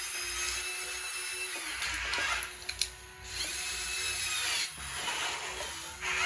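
High electric whine of a radio-controlled model construction machine's motor or hydraulic pump, working under load. It dies away twice, with a click in the first gap, and winds back up each time.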